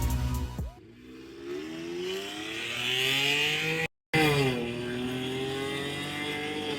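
BMW 523i inline-six engine heard through an aftermarket dual-exit valved exhaust, revved slowly up for about three seconds. After a brief break in the sound the revs fall back and settle into a steady run.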